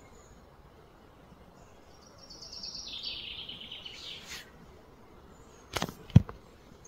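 A bird's fast, pulsed trill, stepping down in pitch over about two seconds, above faint outdoor background. Near the end come two sharp knocks, the second a louder thump.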